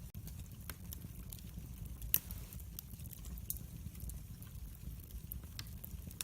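Wood fire in a fireplace crackling, with a steady low rumble of flames and scattered sharp pops. One louder pop comes about two seconds in.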